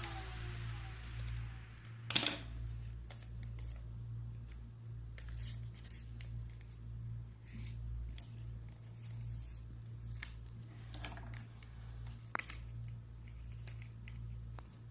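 Paper for a kite being handled and cut: scattered crinkles, snips and sharp clicks, the loudest about two seconds in, over a steady low electrical hum.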